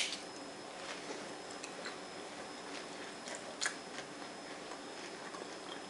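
Mouth-close chewing of a lettuce-wrapped taco, with faint crunches of crisp lettuce and small clicks, and one louder crunch about three and a half seconds in.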